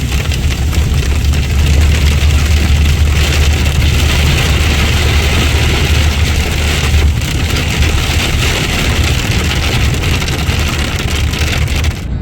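Car driving at highway speed, heard from inside the cabin: a steady low engine and tyre rumble with an even hiss of road and wind noise. The sound cuts off abruptly at the very end.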